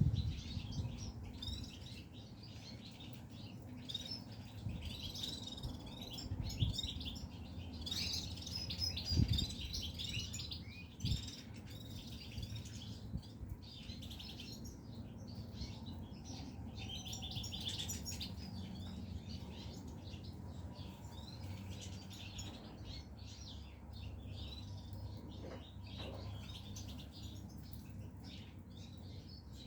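Caged goldfinches chirping and twittering, with busier bursts of song about a third and about two thirds of the way through. A few soft knocks and flutters come early on, over a steady low hum.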